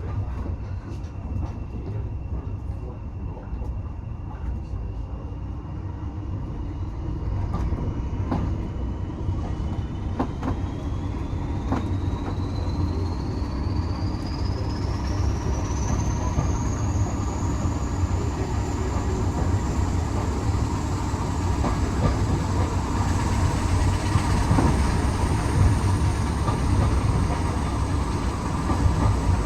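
Railway carriage running along the track, a steady low rumble that grows slowly louder, with a few sharp clicks from the rails in the first half. A thin high whine rises steadily in pitch about a third of the way in and then holds.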